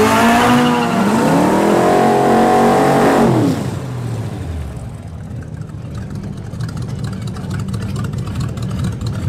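Buick 6.6-litre "Nailhead" V8 in a Ford Model A hot rod revving hard off the start line with the rear tyres spinning and smoking. The revs climb, hold high, then drop steeply about three and a half seconds in and settle to a low, rough burble as the car rolls on.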